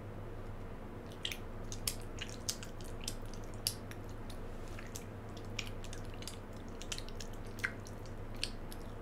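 Close-up chewing of a chocolate-coated marshmallow bear: wet, sticky mouth noises with irregular sharp clicks every half second or so, over a steady low hum.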